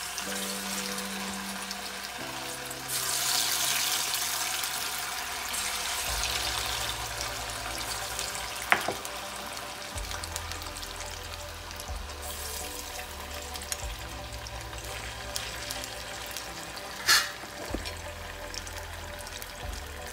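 Marinated chicken pieces sizzling as they fry in hot oil in a wok, with a sharp click about nine seconds in and a brief loud spit late on. Background music with a low, stepping bass line plays underneath.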